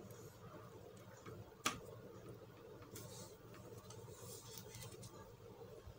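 Faint handling and screwdriver noises as a small screw is driven into a laptop's plastic base, with one sharp click nearly two seconds in and soft scraping later on.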